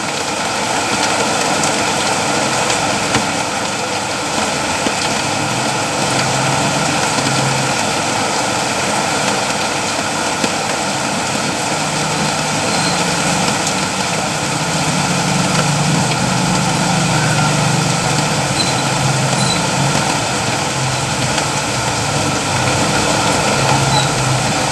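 Steady, heavy rainfall, an even rushing hiss with no let-up. A low hum runs underneath, swelling and fading, loudest around the middle.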